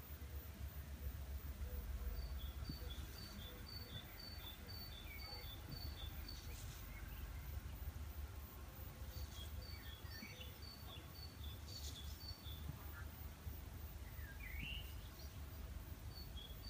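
Faint outdoor ambience with a small songbird repeating a short two-note phrase, high then lower, about twice a second, in two runs separated by a pause, and a few other brief bird calls near the end. A low steady rumble lies underneath.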